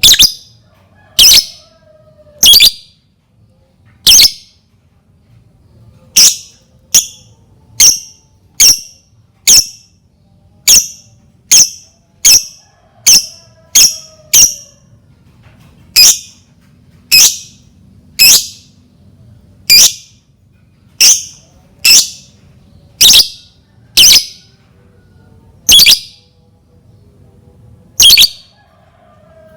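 A lovebird gives loud, sharp single shrieks, about two dozen of them. They come roughly once a second, faster through the middle, then spread out again. This is a lure call of the kind used to set other lovebirds calling.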